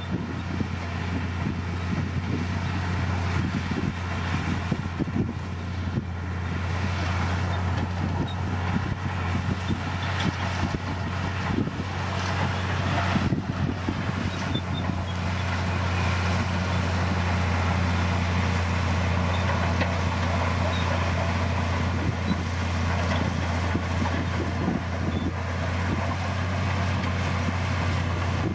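D60P bulldozer's diesel engine running with a steady low drone, with irregular clanks and rattles over it.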